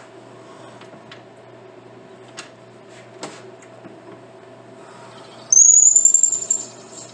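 Steady machine hum with a few light clicks, then about 5.5 s in a loud high-pitched squeal that rises slightly in pitch and lasts about a second. This is the briar stummel being pressed against a spinning sanding wheel to take down its bottom for a fit.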